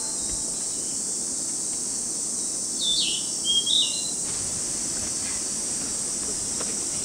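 Wild birds calling in woodland: a few short, falling chirps about three to four seconds in, over a steady high insect drone.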